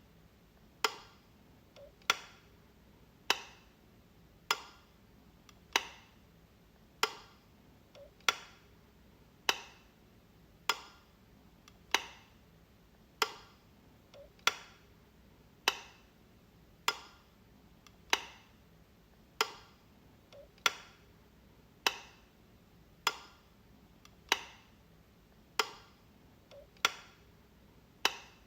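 A light switch clicking over and over, one sharp click about every 1.2 seconds, with now and then a fainter small click just before one.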